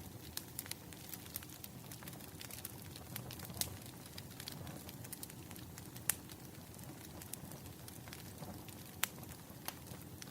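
Wood fire crackling: irregular sharp pops and snaps over a low, steady rush, with a few louder pops now and then.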